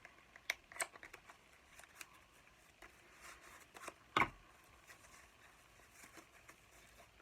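Cosmetic product packaging being handled and opened by hand: scattered small clicks and rustles, with one louder knock about four seconds in.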